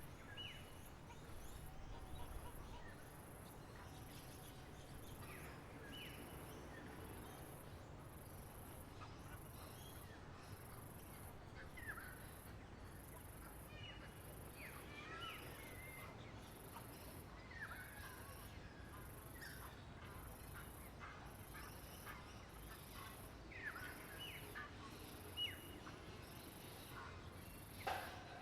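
Wild birds chirping faintly outdoors: short, scattered downward chirps every few seconds, with a brief cluster near the end. A faint high-pitched pulsing repeats about once a second over a low steady background rumble.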